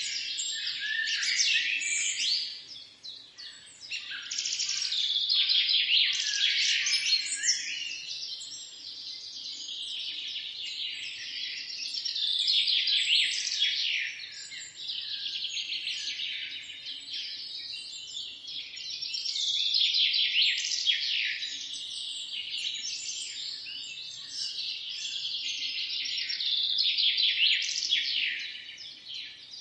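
Songbirds chirping and singing in a dense, overlapping chorus of high trills and chirps that swells louder and fades back every few seconds.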